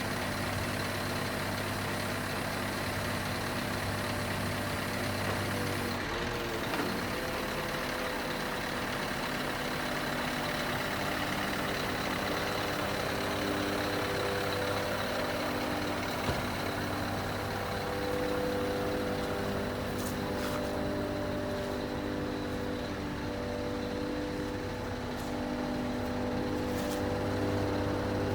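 Scania R500 truck's V8 diesel engine running steadily, its note shifting slightly about six seconds in and again around eighteen seconds in.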